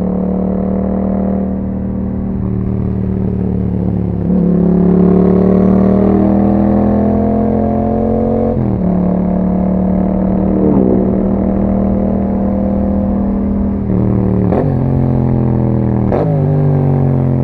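2021 Yamaha MT-07's parallel-twin engine through an Akrapovič exhaust with a dB-killer, under way: the revs climb and fall through several gear changes. Two sharp cracks come near the end as the engine drops in pitch.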